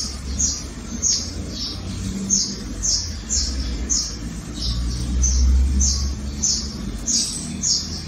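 Small birds chirping over and over, about two short downward chirps a second, over a steady low rumble.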